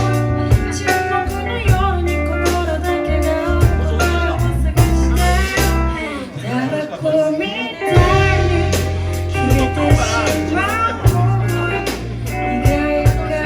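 Live band playing a mellow song: a voice singing over guitar, bass and drums. The bass and drums drop out for a couple of seconds in the middle, then come back in.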